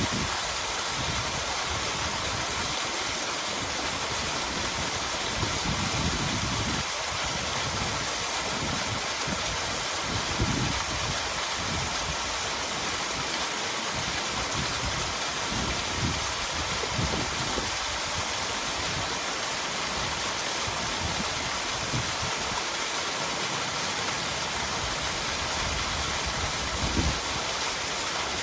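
Small waterfall splashing steadily, a constant rush of falling water, with irregular low rumbles underneath.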